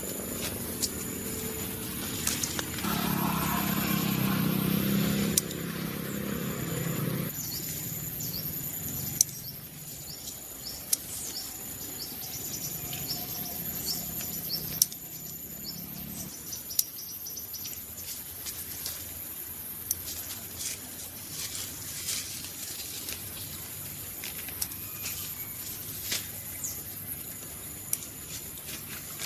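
Birds chirping over a steady high-pitched insect drone, with scattered sharp clicks and snaps throughout. A louder low rumble comes in a few seconds in and fades out about halfway.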